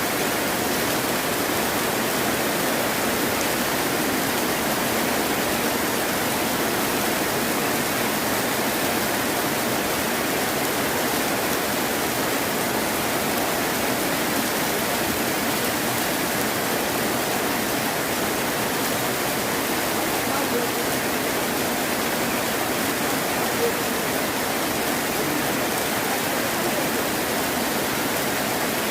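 Heavy rain falling steadily, an even hiss that holds at the same level throughout with no thunder.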